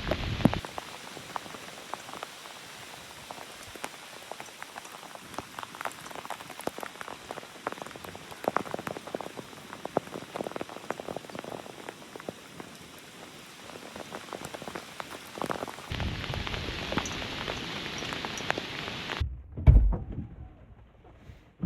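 Steady rain pattering, with many individual drops ticking close to the microphone. Gusts of wind rumble on the microphone at the start and again for a few seconds near the end. Near the end the rain noise drops away and a single loud thump follows.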